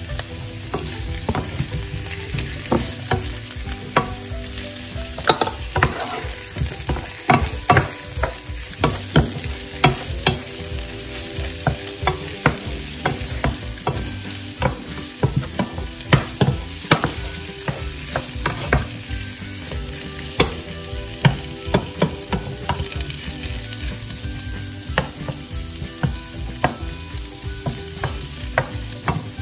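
Whole shell-on shrimp frying with sliced onion in a nonstick pan: a steady sizzle, with frequent irregular knocks and scrapes as a wooden spatula stirs them against the pan.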